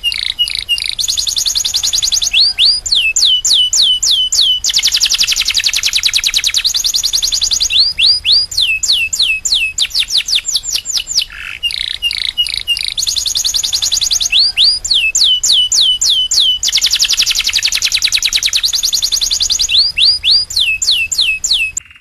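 Domestic canary singing loudly and without pause: very fast high trills alternate with runs of quick down-slurred whistled notes, about five a second. The song stops abruptly at the very end.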